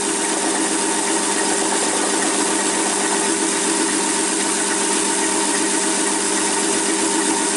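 Small metal lathe running steadily, motor and spindle turning with a constant hum and whine.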